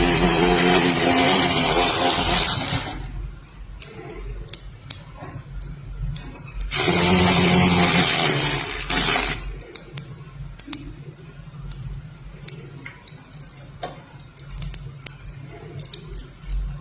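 A small motor running loudly in two bursts, the first about three seconds long and the second about two, with scattered light clicks in the quieter stretches between and after.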